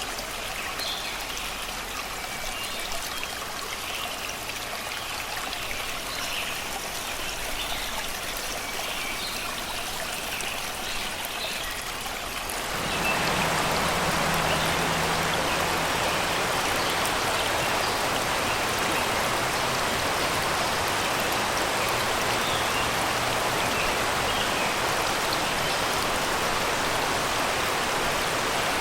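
Shallow river running over and around rocks, a steady rushing babble, with birds singing faintly above it. About halfway through, the water suddenly becomes louder and fuller and drowns out the birds.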